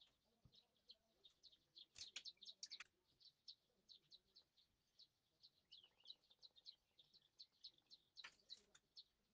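Small birds chirping in quick, faint runs of short calls, busiest about two seconds in and again near the end. A few light knocks of a spoon in a metal tin.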